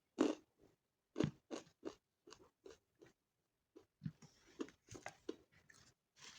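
A person chewing crunchy food close to the microphone: a string of short, crisp crunches at an uneven pace, coming thicker and more crackly from about four seconds in.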